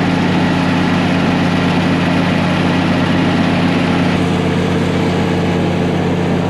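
A vehicle engine running steadily and loudly close to the microphone, its note shifting slightly about four seconds in.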